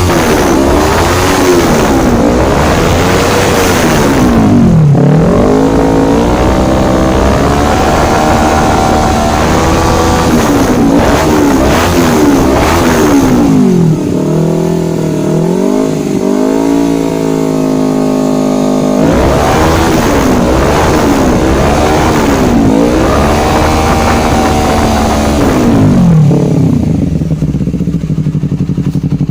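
Honda CBR250RR's parallel-twin engine through a Proliner TR1 carbon full-system aftermarket exhaust, revved up and down over and over with the pitch rising and falling, then settling to a steady idle near the end.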